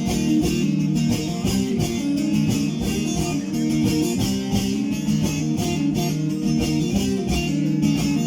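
Bağlama (Turkish long-necked lute) playing an instrumental interlude of semah music: a busy plucked melody of quick notes with steady strumming strokes, amplified and fairly loud.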